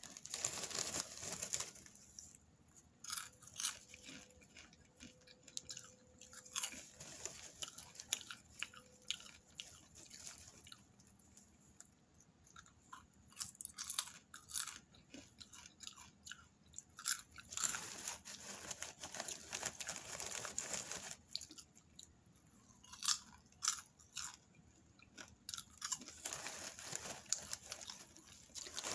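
Popcorn being crunched and chewed close to the microphone, in a run of small crackly bites. In a few longer stretches the plastic bag rustles as a hand goes in for more.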